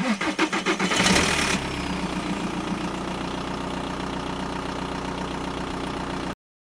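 An engine starting: about a second and a half of loud, rapid pulsing as it catches, then running steadily at idle before cutting off suddenly near the end.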